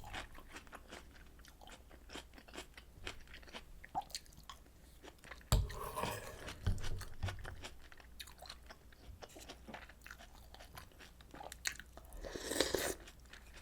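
Close-miked chewing and biting, with crisp crunching and many small wet mouth clicks. A sharp knock comes about five and a half seconds in, and there are two short louder noisy stretches, one just after it and one near the end.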